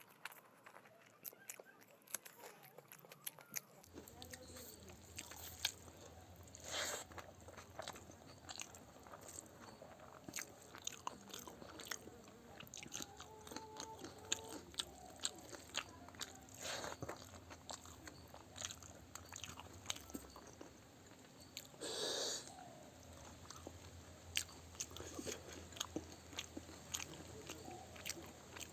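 Close-miked eating sounds: steady chewing with many small wet clicks and crunches. There are two louder crunching bites, about a quarter and three quarters of the way through.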